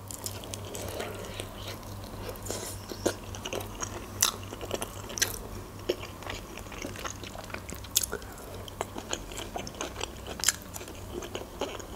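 Close-miked chewing and mouth sounds of someone eating grilled chicken, with scattered short, sharp wet clicks and smacks.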